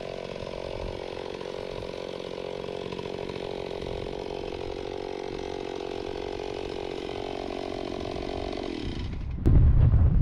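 Stihl 028 Wood Boss two-stroke chainsaw running at high revs, its pitch wavering a little, with its broken muffler welded back together. Near the end the revs drop away, then a sharp click and loud low rumbling on the microphone.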